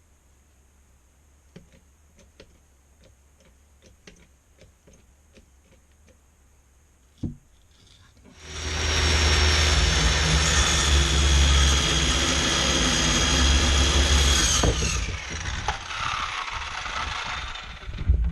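An electric power saw starts up and runs loudly with a steady high whine for about six seconds. Its whine then falls as the blade spins down. Faint taps and a single knock come before it.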